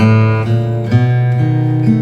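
Background music: acoustic guitar strumming chords, a new chord about every half second.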